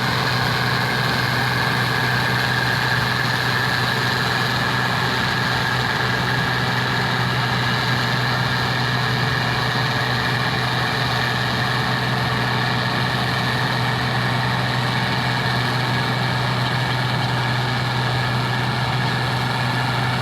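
Engine of farm harvesting machinery running steadily at constant speed, a low hum with a higher whine over it.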